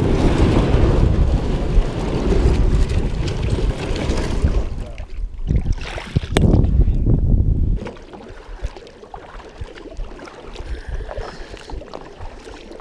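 Wind buffeting the microphone, heavy for about the first eight seconds and then easing, with scattered knocks and water sounds from a kayak being launched and paddled.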